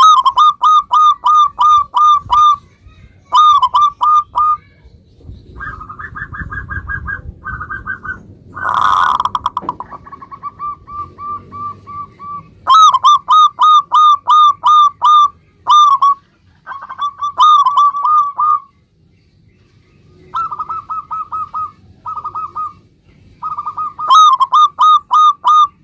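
Local zebra dove (perkutut) cooing: phrases of short, quick, falling notes, about four a second, with pauses between phrases. About nine seconds in there is a brief, louder rattle.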